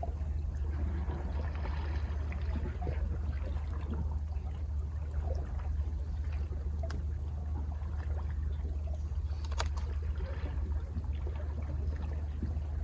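Sea water washing and trickling against rocks, with a steady low rumble beneath and a couple of brief sharp splashes or clicks about seven and ten seconds in.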